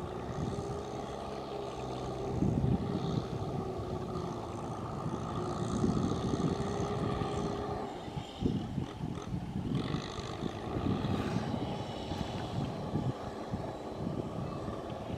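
Tractor engine running steadily under load while ploughing wet mud, swelling and easing in loudness a few times.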